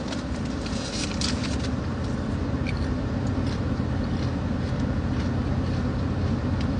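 Steady low hum of a car engine idling, with a few faint clicks about a second in.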